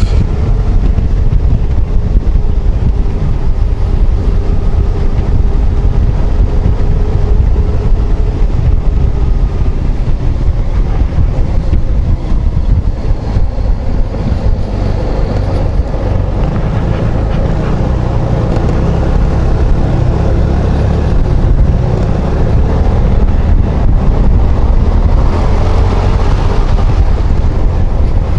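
Yamaha XMAX 250 scooter's single-cylinder engine running steadily at road speed, under heavy wind rush on the rider's microphone.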